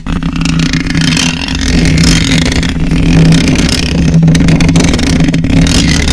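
Continuous close-miked scratching and rubbing on an object right at the microphone: a dense crackle of small scrapes and clicks over a steady low drone.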